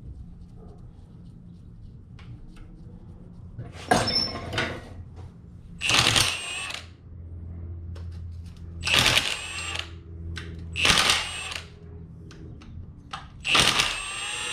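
Five short bursts of a hand or power tool working on the M50 oil pump nut to loosen it, each lasting about a second, over a faint steady low hum.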